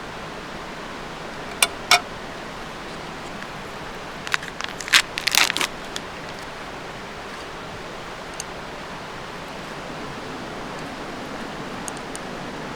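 Steady background hiss with a few short, sharp clicks and knocks: two close together early on, then a quick run of them around the middle.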